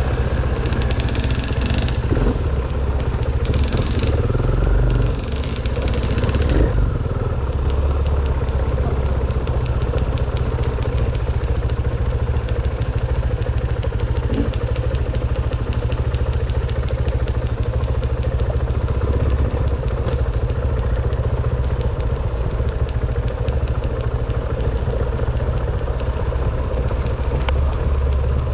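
Dirt bike engine running steadily, with a rushing hiss over it for the first six seconds or so.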